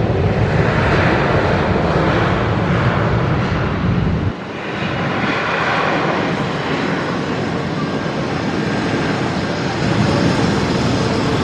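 Jet airliner's engines passing close, a loud steady rush of jet noise with slow sweeping swells in pitch as it goes by. There is heavy wind rumble on the microphone, and it drops away abruptly about four seconds in.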